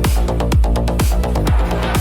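Minimal techno with a steady four-on-the-floor kick drum that drops in pitch on each beat, about two beats a second. Short hi-hat ticks fall between the kicks, over sustained synth lines.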